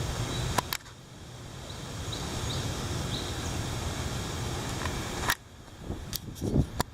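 Steady rushing wind with a low rumble, broken by a few sharp clicks where the sound drops out suddenly.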